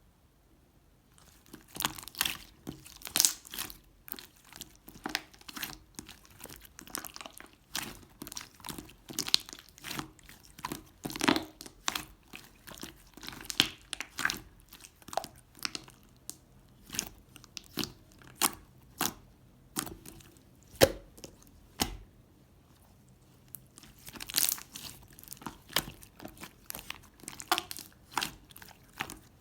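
Irregular crinkling and crackling: quick, sharp, crisp noises in close succession, starting about a second and a half in, with a short lull a little past two-thirds of the way through.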